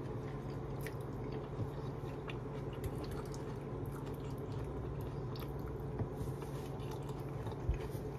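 A person chewing a mouthful of food, with a few faint, short clicks, over a steady low hum.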